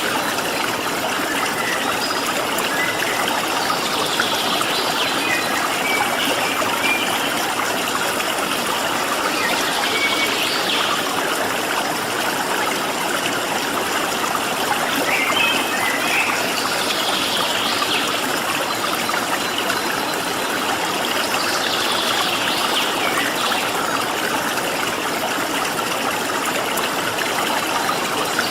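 Steady rush of a flowing stream. Over it, a small bird calls every few seconds with short chirps and quick downward-sweeping notes.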